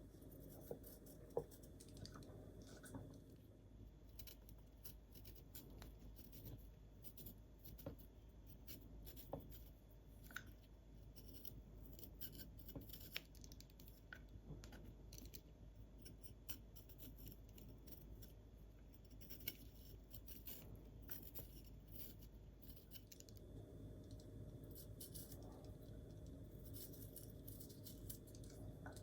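Faint, scattered small clicks and light scratching over quiet room tone.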